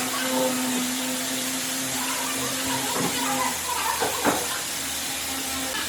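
A power tool's electric motor running steadily, a hum over a hiss, with a couple of short knocks in the second half.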